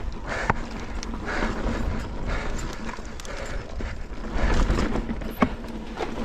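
Mountain bike rolling over slickrock sandstone: tyre noise with repeated knocks and rattles from the bike, over a low rumble. Sharp knocks come about half a second in and again near the end.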